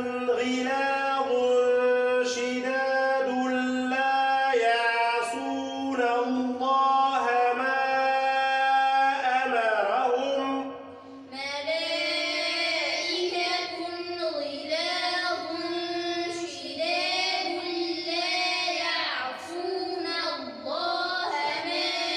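Quran recitation in the melodic tajweed style, sung phrase by phrase in long held notes, with a group of children repeating after the reciter. The voice and pitch change about halfway, when the next voice takes up the phrase.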